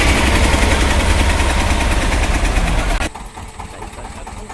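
Tractor diesel engine running hard under load, a loud steady fast chugging that cuts off abruptly about three seconds in.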